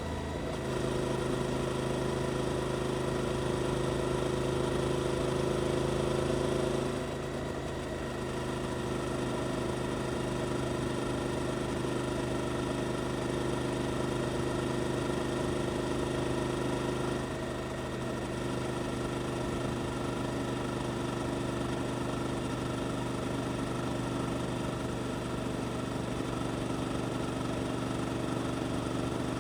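Suzuki GSX-8S's 776 cc parallel-twin engine idling steadily through an Arrow aftermarket exhaust, a little quieter from about seven seconds in.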